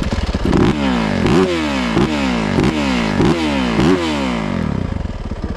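Yamaha YZ450F dirt bike's single-cylinder four-stroke engine revved in quick throttle blips, about six in a row, each one rising sharply and falling back.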